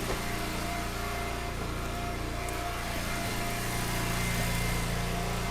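Small gas engine, likely a log splitter's, running steadily at a constant speed.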